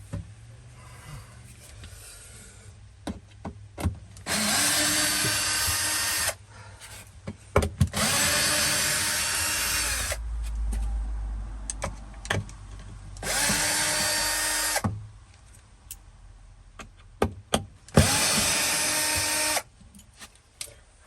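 Power drill running in four bursts of one to two seconds, each spinning up, holding speed and winding down, as it backs out the screws holding kitchen-unit brackets. Small clicks and clinks of screws and metal fall between the runs.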